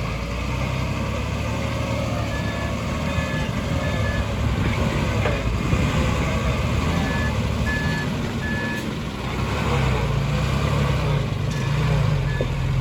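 Heavy diesel construction machinery running steadily at work, with a reversing alarm beeping in three runs of three short beeps.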